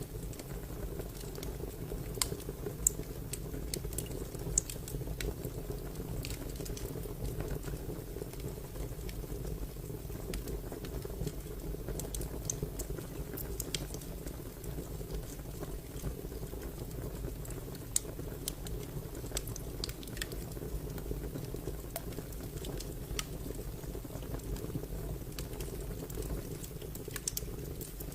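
Fire crackling: a steady low rush of flames with irregular sharp pops and snaps scattered throughout, a few of them noticeably louder.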